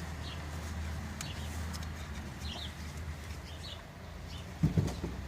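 Birds chirping in short calls scattered through the background over a low steady hum, with a couple of brief, louder sounds near the end.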